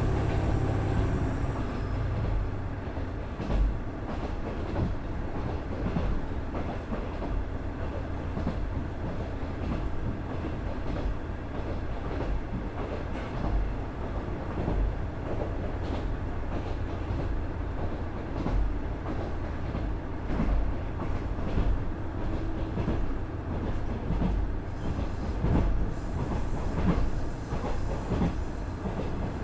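KiHa 110 series diesel railcar running, heard on board: the rumble of its Cummins DMF14HZA diesel engine and running gear, with irregular clacks and thumps as the wheels cross rail joints.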